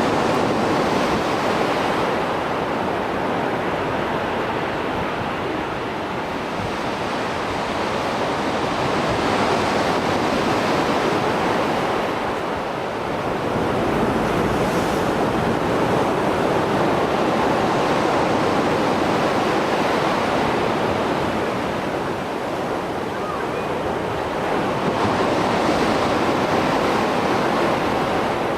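Mediterranean sea waves after a storm, a steady rush of surf that swells and eases every few seconds as waves break and wash back.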